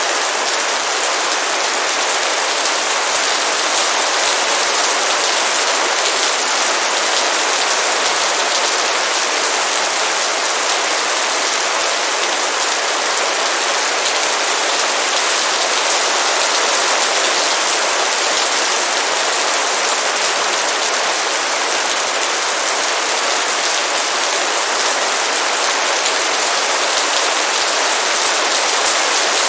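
Heavy rain falling in a steady, dense downpour, an even hiss with no let-up.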